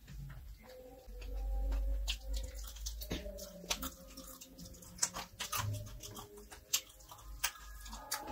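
Close-up eating sounds: wet chewing and sharp mouth clicks as chicken and fried rice are eaten by hand. A low rumble swells from about one to three seconds in, and faint music with held notes lies underneath.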